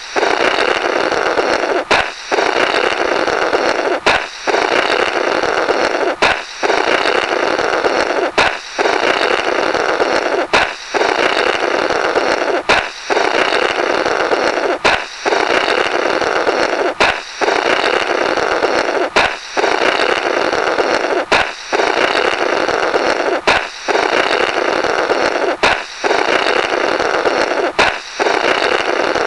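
Comical 'blorrrt' balloon sound effect on a loop: a sharp balloon pop, then a buzzy, sputtering blow through the burst rubber, repeating about every two seconds.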